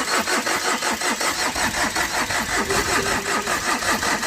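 Tata Vista's TDI diesel engine being turned over by its starter motor in an even cranking rhythm of about five pulses a second, without firing. The engine fails to start after overheating, which the owner puts down to compression escaping into the cooling system and water in the engine.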